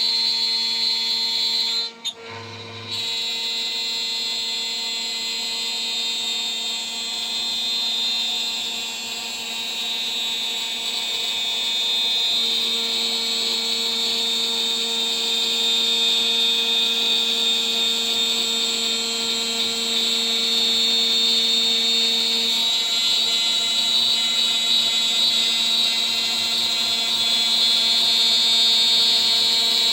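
CNC router spindle running at about 14,000 rpm, its 3 mm three-flute end mill milling a part: a steady high-pitched whine with a low hum under it. The sound dips sharply for about a second around two seconds in, then carries on.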